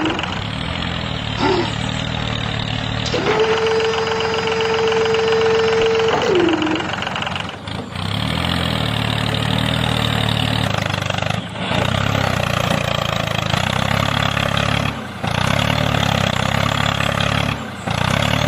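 Steady engine running sound of a miniature DIY tractor as it works. A few seconds in, a held whine lasts about three seconds and slides down in pitch as it stops.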